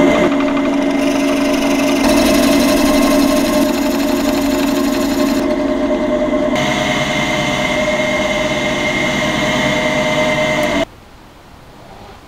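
An electric power tool's motor running steadily with a hiss of work over it, its tone shifting a couple of times, then switching off suddenly near the end.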